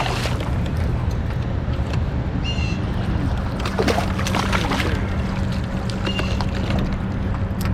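Sounds aboard a fishing kayak: a steady low hum with scattered knocks and clicks of gear against the boat, and some water sloshing.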